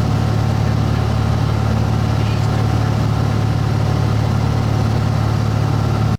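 Light aircraft's engine and propeller droning steadily, heard from inside the cabin in level flight.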